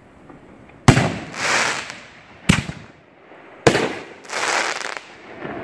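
Aerial fireworks bursting overhead: three sharp bangs a little over a second apart. The first and last are each followed by a rushing noise lasting about half a second.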